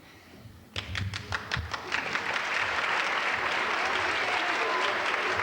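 Audience applause: a few scattered claps about a second in, quickly building into steady clapping.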